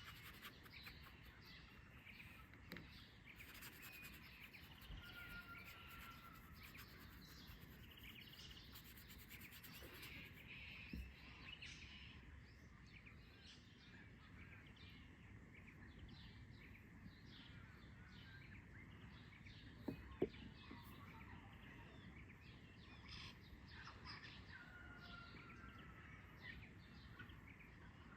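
Faint outdoor birdsong: many small birds chirping and calling, with a couple of short whistled notes, over a low steady background hiss. A sharp tap sounds once, about two-thirds of the way through.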